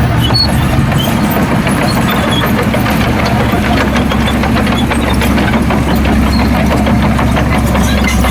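Heavy diesel engine running steadily under load, a constant low drone.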